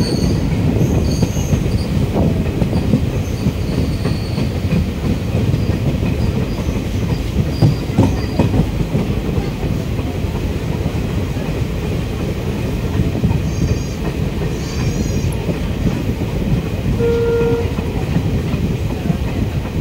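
Passenger train running, heard from inside a coach at the open window: a steady rumble of wheels on rail, with a few sharp rail-joint clicks and a short pitched tone near the end.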